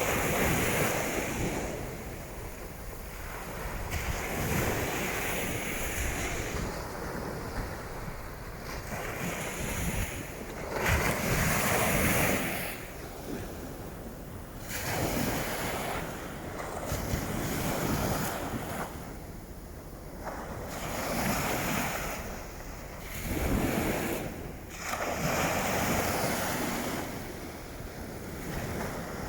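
Waves washing onto a beach in strong wind, with gusts buffeting the microphone. The rushing noise swells and falls every few seconds.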